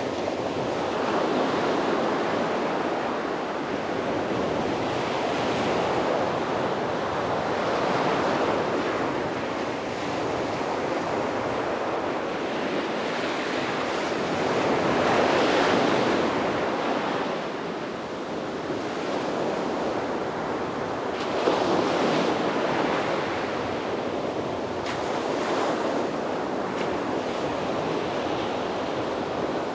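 Sea waves breaking and washing up a beach: a continuous surf rush that swells and eases in slow surges. It is loudest about halfway through, with another sharper surge a few seconds later.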